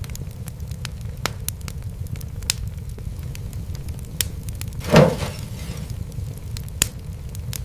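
Wood fire crackling: a steady low rumble with scattered sharp pops, and one louder pop with a brief hiss about five seconds in.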